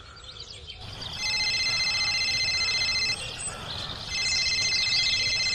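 Electronic ringing tone like a telephone ring, sounding twice for about two seconds each with a short gap, steady in pitch with a fast trill. Faint bird chirps in the background.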